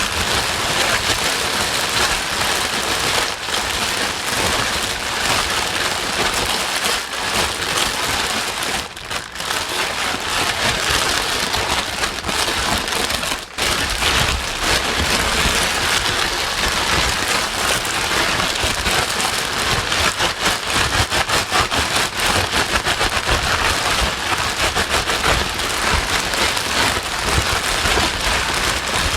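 Loud, steady white noise for soothing a crying baby: a dense, rain-like hiss spread evenly across all pitches, with two brief dips about a third of the way and halfway through.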